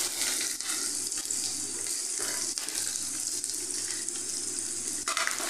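Finely chopped onion sizzling in hot oil in a frying pan, a steady hiss, while a spatula stirs it.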